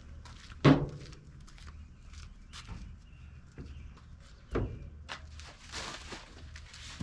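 Two loud knocks, one under a second in and one about four and a half seconds in, among lighter clicks and shuffling: hard objects being handled and set down during hands-on work.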